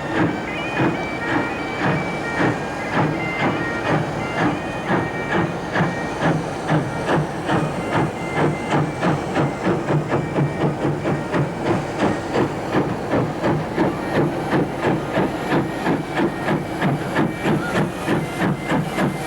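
Steam locomotive working hard, the North British Railway J36 0-6-0 'Maude', its exhaust beats quickening steadily as it picks up speed.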